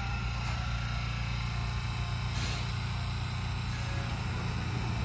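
Shin-Keisei 8800 series commuter train standing at the platform with its doors open, its onboard equipment giving a steady low hum, with a brief faint hiss about halfway through.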